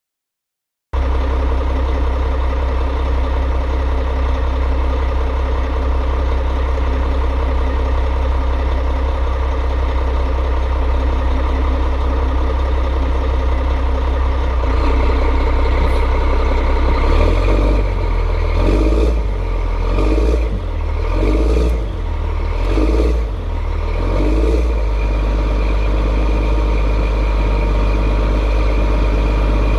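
Cummins M11 inline-six diesel engine of a 1998 Gillig Phantom high-floor bus running with a throaty exhaust note, steady at first. From about halfway it grows louder and its note rises and falls several times before settling steady again.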